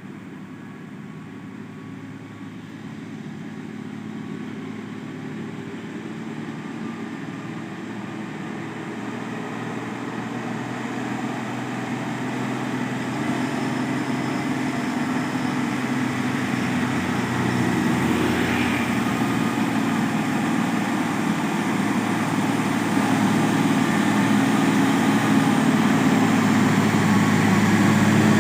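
Nissan Condor container truck's diesel engine running steadily under load on a steep uphill climb, growing steadily louder as the truck approaches.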